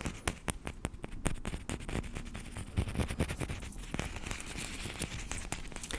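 Nespresso coffee capsules handled close to the microphone: a dense run of small clicks and crinkles.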